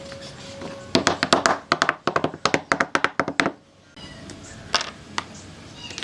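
A quick run of sharp taps, several a second, for about two and a half seconds starting about a second in, then a few single ticks.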